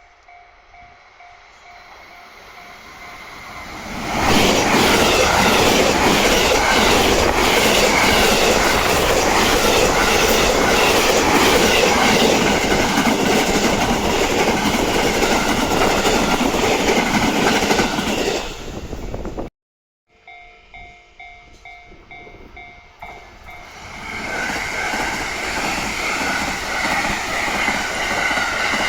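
Japanese railway level-crossing alarm ringing with a steady repeated ding, then a train passes over the crossing loudly for about fourteen seconds. After a short break the crossing alarm rings again and another train comes up to the crossing, growing louder near the end.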